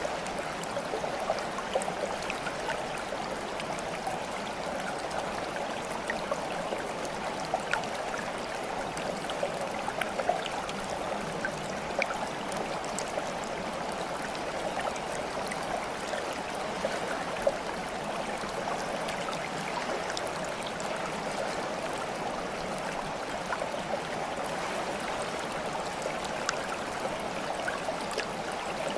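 Steady flowing water like a babbling stream, with many small splashes and drips scattered through it.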